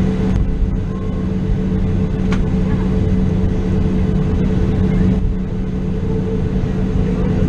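Steady cabin drone of a Boeing 737-700, its CFM56-7B jet engines running evenly with a constant low hum, heard from inside the passenger cabin while the plane taxis to the gate.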